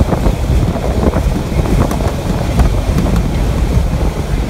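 Strong wind buffeting the microphone, an irregular low rumble that gusts and flutters in level.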